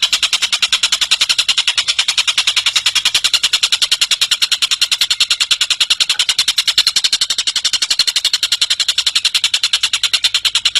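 Tengkek cililin bird calling in a long, unbroken trill of sharp, high notes, about eight a second, repeated evenly.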